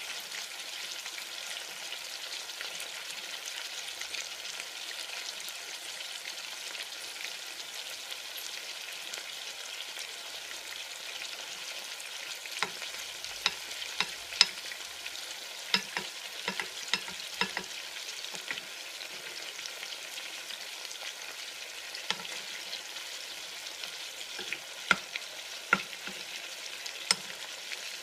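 Chicken frying with a steady sizzle. From about halfway through, and again near the end, a scatter of sharp clicks and knocks cuts through the sizzle.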